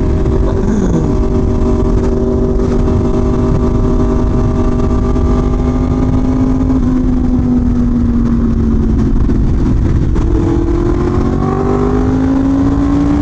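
Yamaha R1M's crossplane inline-four engine running under way at a steady pitch, easing off for a couple of seconds past the middle, then climbing again near the end, all under a dense rush of wind and road noise.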